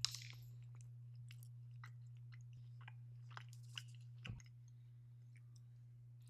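Someone chewing a bite of salty caramel cookie close to the microphone: a bite at the very start, then scattered wet mouth clicks and small crunches, a few louder ones about three to four seconds in. A steady low hum runs underneath.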